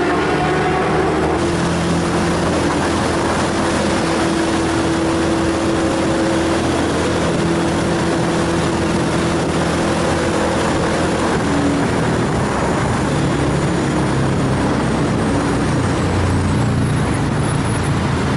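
Motorcycle engine running at a fairly steady road speed, its tone shifting slightly with the throttle, under a constant loud rush of wind and road noise.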